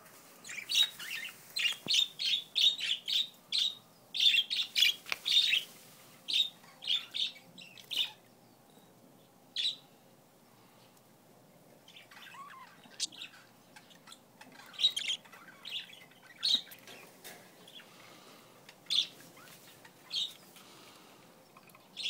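Pet budgerigars chirping: a fast run of short, sharp chirps for the first six seconds or so, then scattered single chirps.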